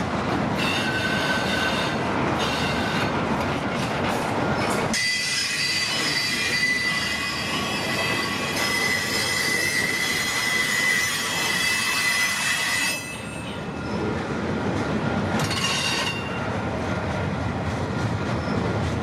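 Freight train cars rolling past with steel wheels squealing on the rail. The rumble and clatter give way about five seconds in to a steady, high-pitched wheel squeal lasting about eight seconds. A shorter squeal comes back near the end.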